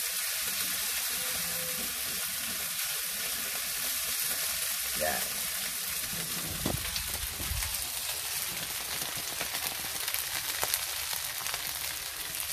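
Diced potatoes, ham and mushrooms sizzling steadily in oil in a stone-coated frying pan over a gas burner, with a few short scrapes and taps from a silicone spatula being stirred through the pan in the second half.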